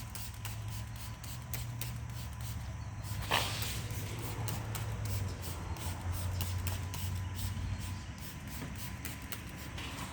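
A single short spray of water-based dressing from a trigger spray bottle about three seconds in, over a steady low hum.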